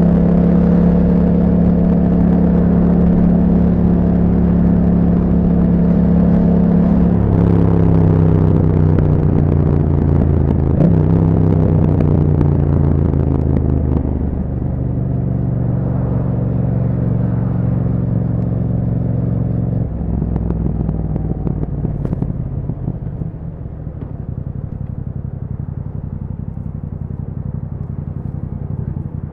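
Yamaha MT-07's parallel-twin engine running through an Akrapovic exhaust, steady at first, then its pitch falls in several steps, about 7, 14 and 20 seconds in, as the bike slows. The sound grows quieter toward the end.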